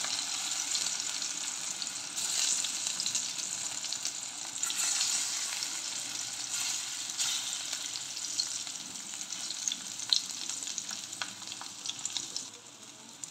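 Besan-battered brinjal slices shallow-frying in hot oil, sizzling with many fine crackles as the slices are laid in and turned. The sizzle drops off near the end.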